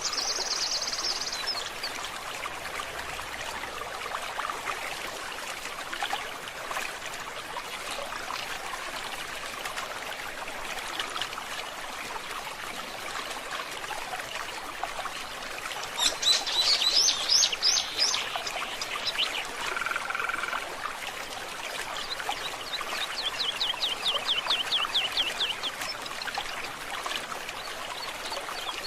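Water trickling steadily in a forest stream, with songbirds calling over it. A buzzy trill comes at the start, a burst of quick falling notes a little past the middle is the loudest moment, then a short whistled note and a long, rapid trill near the end.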